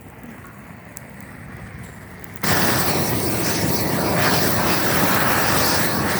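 Propane weed-burning torch firing: a sudden loud, steady rush of flame that starts about two and a half seconds in and cuts off abruptly near the end, with a fainter low hiss before it.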